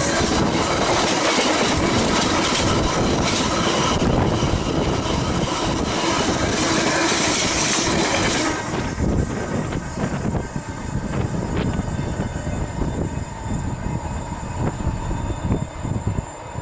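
Loud rushing and rattling of a freight train's container wagons passing close by, their wheels clattering on the rails. About halfway through the last wagon passes and the noise drops suddenly to a fading rumble with scattered clicks as the train goes away.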